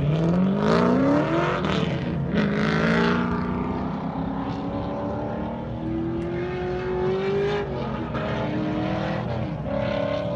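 Drift car engine revving hard on track. Its pitch climbs steeply, drops about two seconds in, then climbs again and holds at high revs with small dips.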